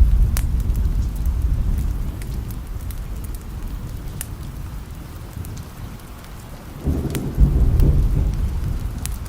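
Steady rain with rolling thunder: a low rumble fading away in the first couple of seconds, then a second peal swelling up about seven seconds in and slowly dying off. Scattered sharp pops run through it.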